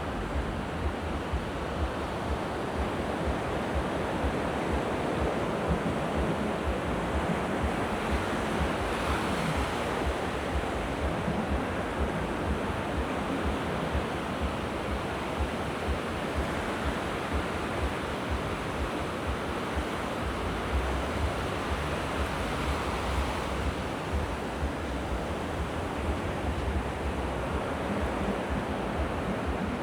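Sea waves washing onto the shore in a continuous surf, swelling a couple of times, with wind buffeting the microphone in a low rumble.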